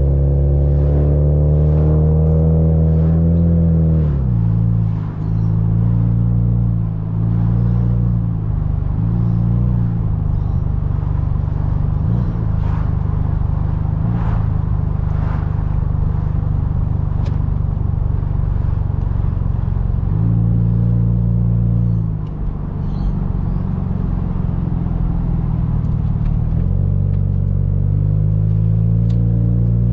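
Car engine and road noise while driving. The engine note rises for about four seconds, then drops sharply and settles into a steady drone, dipping again briefly around twenty-two seconds before climbing back.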